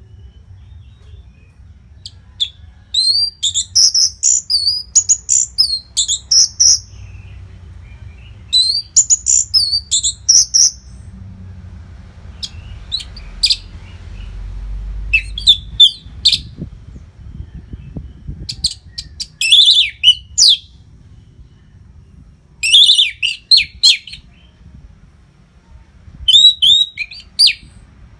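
Orange-headed thrush singing in bursts of rapid, high-pitched warbled phrases, each a second or few long, every few seconds. A faint low rumble runs underneath.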